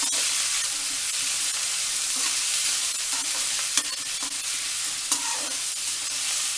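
Chopped cabbage, onion and garlic frying in hot oil in a kadhai: a steady sizzle, with a spatula stirring and scraping. Two sharp knocks of the spatula against the pan come a little before the middle and about three-quarters of the way through.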